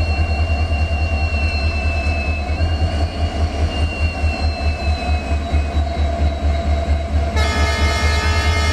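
Train rumbling steadily with a pulsing low throb. About seven and a half seconds in, a locomotive horn starts sounding a chord of several notes and holds on.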